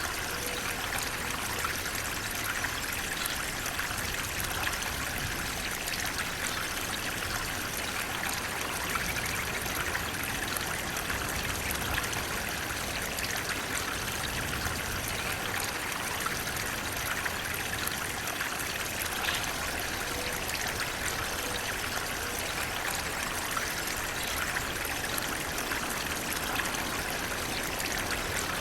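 Flowing water running steadily, a constant rushing and splashing with no pauses.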